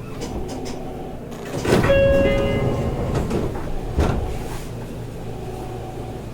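Seibu 30000 series electric train coming to a stop. There is a loud burst of rushing air about two seconds in, a second of steady chime-like tones, and a sharp knock about four seconds in, then a low steady hum.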